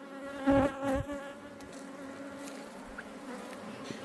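Honeybees buzzing in a steady hum around a hive, with two dull thumps about half a second and a second in.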